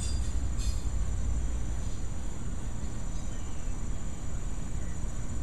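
Steady high insect buzz over a continuous low rumble.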